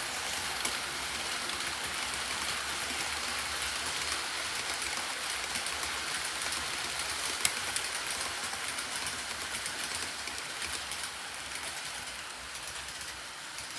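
Model train running on the layout track: a steady hiss and rumble of wheels and motor that fades gradually toward the end as the train moves away, with a sharp click about halfway through.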